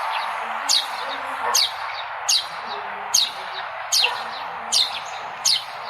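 Sparrow chirping: a short, sharp chirp falling in pitch, repeated about every 0.8 seconds, over steady background hiss.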